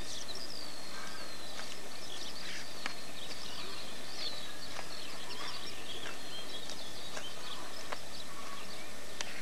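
Small birds chirping and singing in quick, high-pitched, mostly falling calls over a steady hiss, with a few faint clicks now and then.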